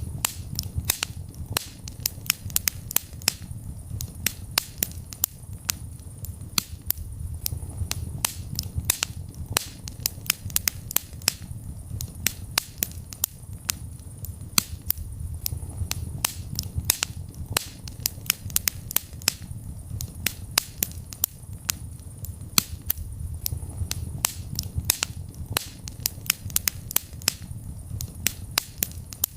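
Wood fire in a fireplace crackling: many sharp, irregular pops and snaps, several a second, over a low steady rumble of the flames.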